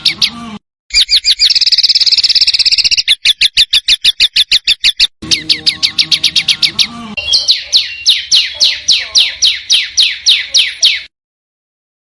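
Small songbirds singing fast, sharp chirping phrases of high notes, about ten a second, in spliced recordings. Each phrase cuts off abruptly into silence: briefly after the start, again about five seconds in, and for a longer stretch near the end.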